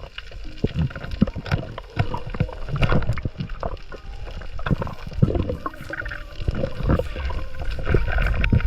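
Sea water sloshing and gurgling around the camera, with a low rumble and many irregular clicks and knocks.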